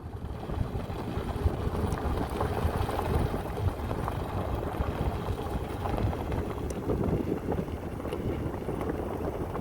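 Vehicle driving on a road of crushed lava rock: a steady low rumble with the crackle of tyres on the loose gravel.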